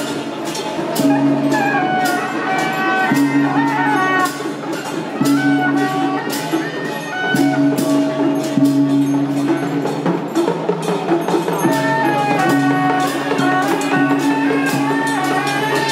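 Traditional Chinese festival music: a melody over held low notes that shift about every two seconds, with regular percussion strikes.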